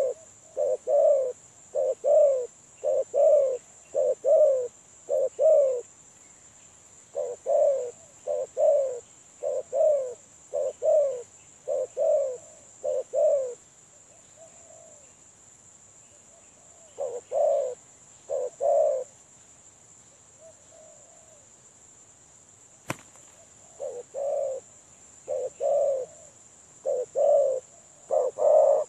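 Spotted dove (tekukur) cooing in repeated phrases of short falling notes, in bouts with pauses of a few seconds between them. A single sharp click about 23 seconds in.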